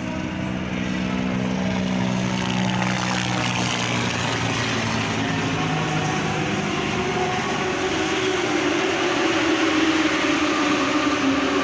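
2020 Suzuki Katana's 999 cc inline-four engine running. It holds a steady note for the first few seconds, then rises gradually in pitch and gets slightly louder as the revs climb.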